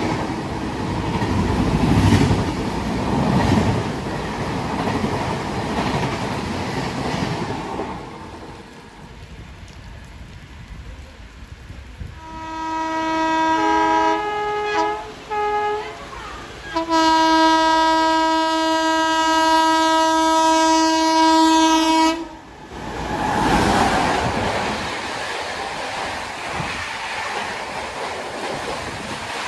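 Train coaches rushing past at speed with wheel clatter, then a hiss of rain. Then the horn of a WAP-7 electric locomotive: a blast, a few broken toots, and a long steady blast that cuts off suddenly. After that, a train's coaches rush past through the rain.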